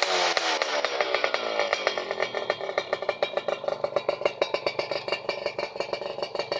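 Yamaha F1ZR two-stroke engine through an aftermarket 'cring' exhaust, the revs falling away after a blip and settling into an uneven idle over the first couple of seconds.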